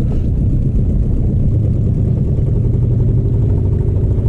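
Boat motor running steadily under way into a headwind, a constant low engine drone with wind noise on the microphone.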